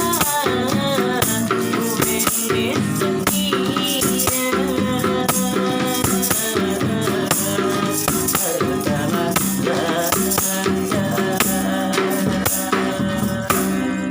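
A street busker's song: a voice singing a melody over steady instrument chords, with a hand rattle shaken in a steady rhythm.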